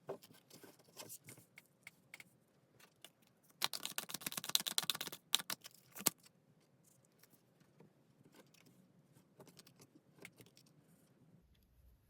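Tarot cards being handled and shuffled: scattered light card clicks, with a fast flurry of card flicks about four seconds in lasting under two seconds.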